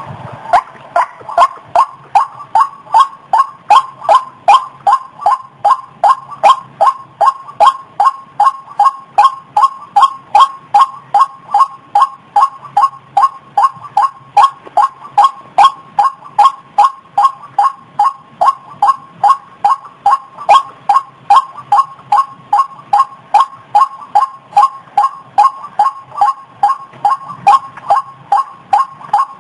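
White-breasted waterhen (ruak-ruak) calling: one short note repeated at an even, unbroken pace of about two to three a second, the call used as a lure for the species.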